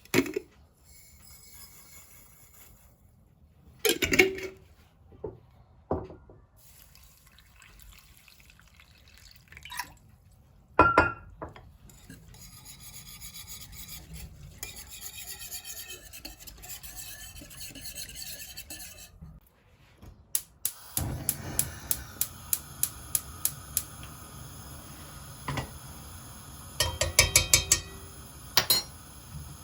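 Kitchen food-preparation sounds: utensils and dishes knocking and clinking, with rubbing and scraping. Later a run of regular taps about two or three a second sets in, ending in a quick flurry of taps.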